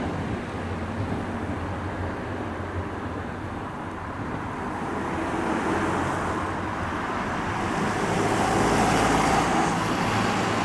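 Nose Electric Railway 5100 series electric commuter train running on the line, a steady rumble of motors and wheels on rail that grows louder about two thirds of the way through.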